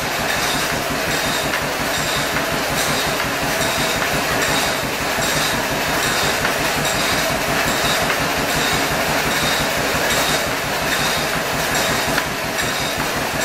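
Tractor engine running and driving a PTO-mounted Ottawa log saw, a loud, steady, fast mechanical clatter.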